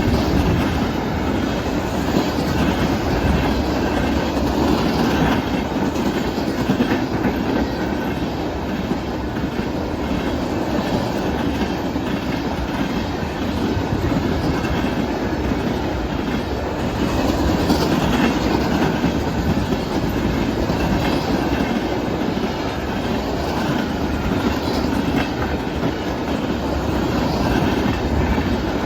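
A CSX freight train of tank cars rolling past at close range: a steady, loud rumble of wheels on rail with repeated clickety-clack from the wheels crossing rail joints.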